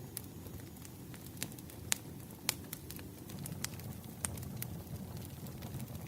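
Wood fire in a fireplace crackling: irregular sharp pops and snaps over a steady low rumble of burning. The loudest snaps come about two and two and a half seconds in.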